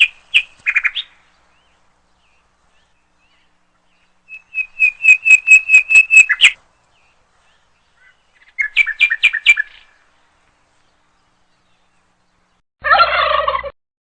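Bird calls: three bouts of quick repeated high chirps, the middle one the longest and loudest. Near the end comes one short, different call.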